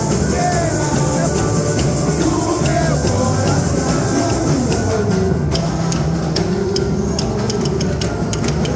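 Samba-enredo played live with percussion; about halfway through, sharp, evenly spaced high percussion strikes come in over the band.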